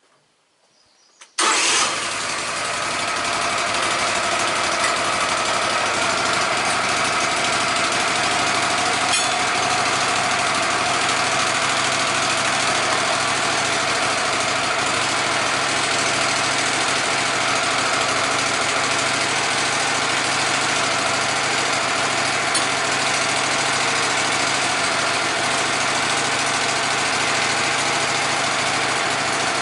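Sawmill engine starting up about a second and a half in, catching at once and then running steadily.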